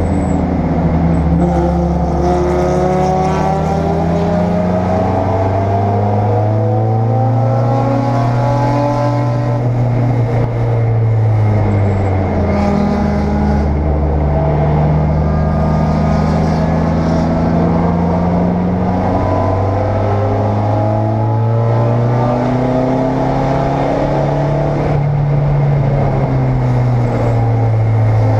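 Race car engine heard from inside the cabin at racing speed, its note climbing under acceleration and falling back several times over the lap.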